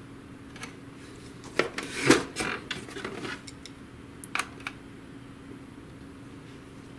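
Screwdriver taking out a screw from the printer's plastic frame, with a scatter of light clicks and knocks as the tool and parts are handled, the loudest about two seconds in; after about five seconds the clicks stop.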